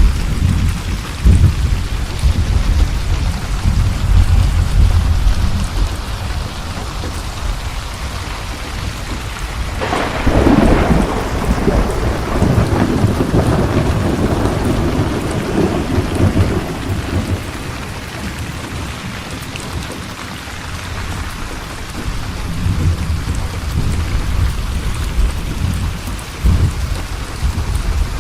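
Steady rain with rolling thunder. About ten seconds in, a sudden thunderclap breaks out and rumbles away over the next several seconds, and low rumbling returns near the end.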